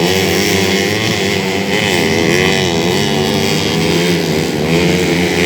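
Several 130cc underbone racing motorcycles running hard on a dirt grasstrack, their engine pitch rising and falling over and over as they accelerate and ease off.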